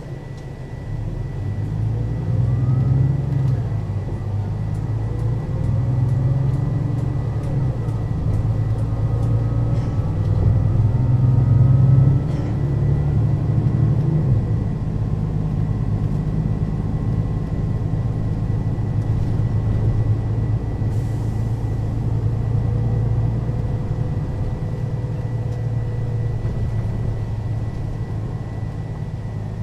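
Mercedes-Benz O 530 Citaro city bus with a ZF automatic gearbox pulling away and accelerating, its engine and transmission rising in pitch over roughly the first fourteen seconds, then running steadily at cruising speed. A thin steady high whine runs underneath.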